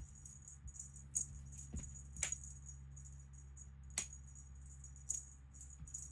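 Small bell on a cat's toy bird jingling in a few short, irregular shakes as the bird is batted and swung about. A steady low hum runs underneath.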